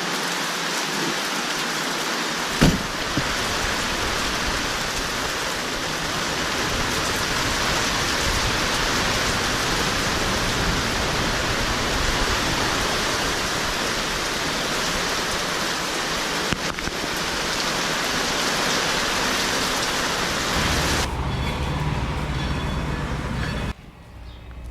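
Heavy rain falling in a steady, even hiss, with one sharp knock about three seconds in; the rain cuts off suddenly near the end.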